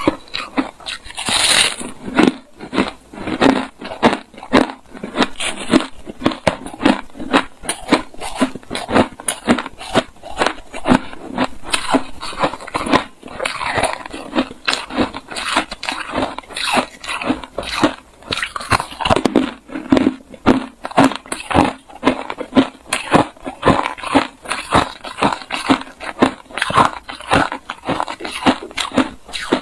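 A person biting and chewing hard refrozen crushed ice close to the microphone: a continuous run of sharp crunches, several a second.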